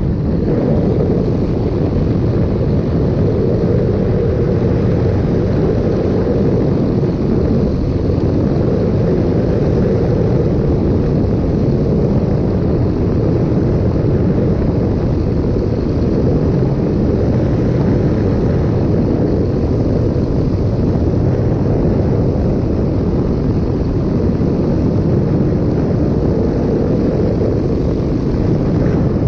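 V200 ultralight airplane's engine and propeller running steadily, with rushing air, on the approach to landing.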